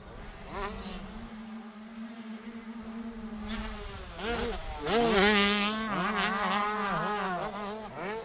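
Two-stroke 125cc motocross bikes racing, engines revving up and falling back over and over as they shift gears. One bike is loudest about five seconds in.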